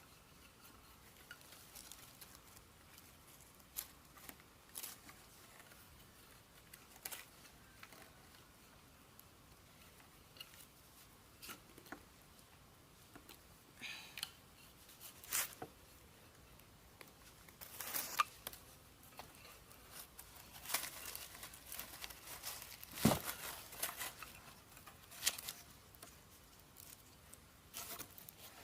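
Scattered short clicks, snips and rustles of material being handled, cut or torn by hand. They come more often in the second half, with one sharper knock about four-fifths of the way through.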